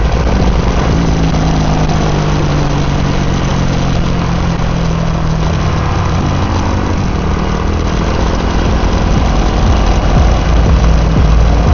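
Single-cylinder dual-sport motorcycle engine running, with a steady low engine note for the first half that then shifts and turns rougher.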